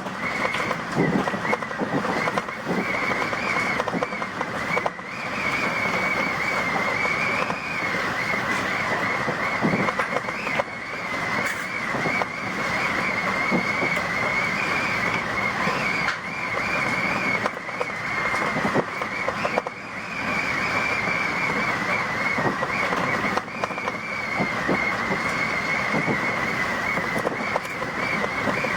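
Tobu Tojo Line electric commuter train running, heard from inside the carriage: a steady rush of wheel and track noise with scattered faint clicks and a high whine that wavers slightly in pitch.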